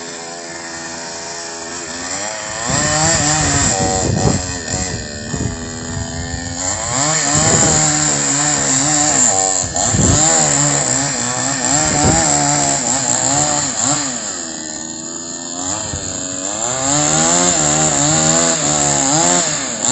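Trimtech 45 cc two-stroke chainsaw cutting into wood. It runs steadily at first, then bites in a couple of seconds in, its engine pitch repeatedly dipping under load and recovering. It eases off briefly about three-quarters of the way through before cutting again.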